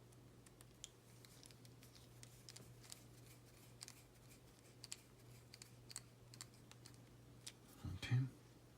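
Faint, scattered light clicks and ticks of small plastic model-kit parts being handled and fitted together, over a steady low hum.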